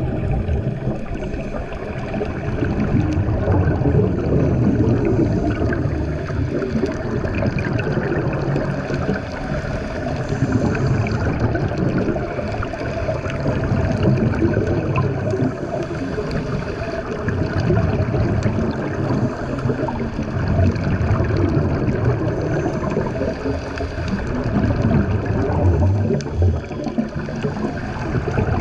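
Water gurgling and rushing, with a loud low churning that swells and eases every few seconds.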